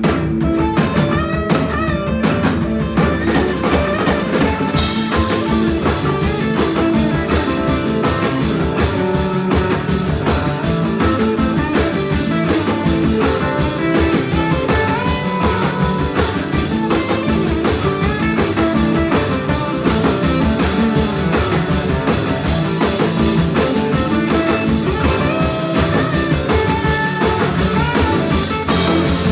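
Live blues trio playing an instrumental passage: guitar over a band, with the drum kit's cymbals and drums coming in fully about five seconds in.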